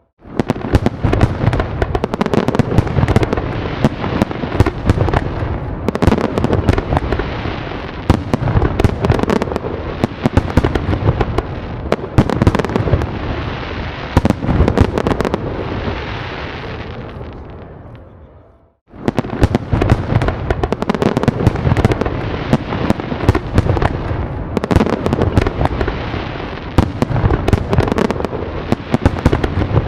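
A dense fireworks barrage: rapid, overlapping bangs and crackles over deep booms. It fades away about two-thirds of the way through, then starts again abruptly at full strength.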